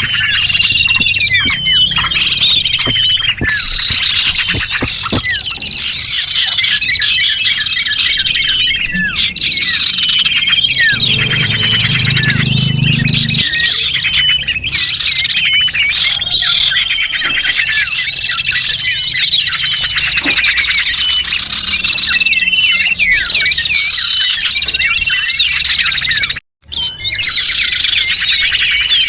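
Dense, continuous twittering of many small birds: overlapping high chirps, trills and squeaky calls, as used in a lure recording to attract small birds. The sound cuts out for a split second near the end.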